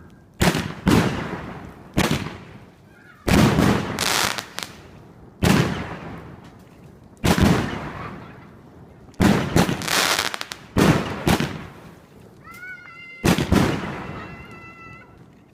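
Aerial fireworks going off: a loud bang every second or two, each followed by a fading rumble and crackle. Near the end a high-pitched wailing tone rises and holds for a couple of seconds beneath the bangs.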